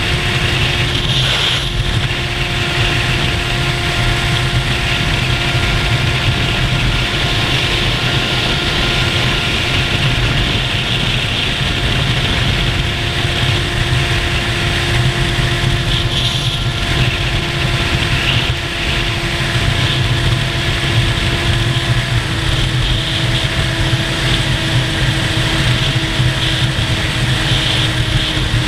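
A motorcycle engine running at a nearly steady cruising speed under a heavy rush of wind noise, its note drifting only slightly in pitch.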